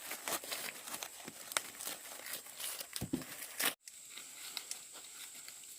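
Dry corn leaves and husks rustling and crackling, with a few sharp snaps, as ears of corn are broken off the stalks by hand.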